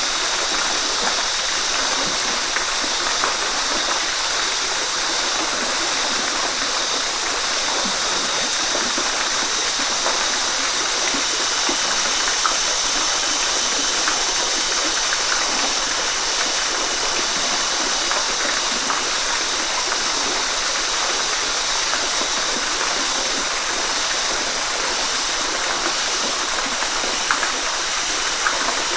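Waterfall: steady rush and splash of falling water, even and unbroken, with small splashes flicking through it.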